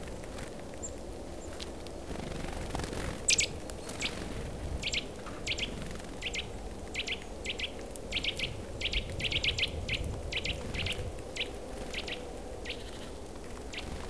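Birds calling: a run of short, sharp, high chirps, often in quick doubles and triples, starting about three seconds in, coming thickest in the middle and thinning out near the end, over a steady low background noise.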